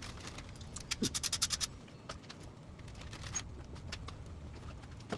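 A hand ratchet clicking in a quick run of about eight clicks, followed by a few scattered single clicks and knocks over a steady low hum.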